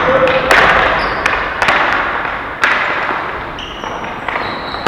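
Ball hockey play: a string of sharp knocks from sticks and the ball hitting the floor and boards, echoing in a large hall.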